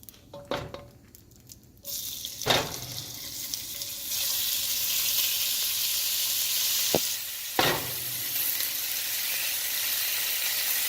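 Cubed raw chicken sizzling in hot olive oil in a wok. The sizzle starts about two seconds in and grows louder about two seconds later, with a few sharp knocks against the pan.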